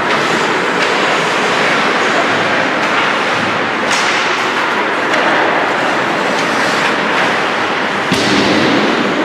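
Ice hockey rink sounds: a steady scrape of skates on ice, with a few sharp clacks of sticks and puck, the loudest about eight seconds in.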